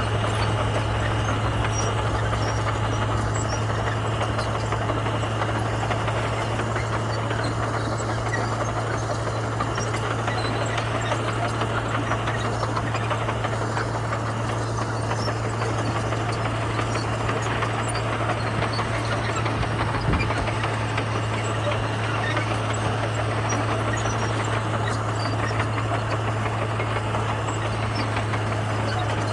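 Komatsu bulldozer's diesel engine running steadily with a constant low hum, with a single short knock about twenty seconds in.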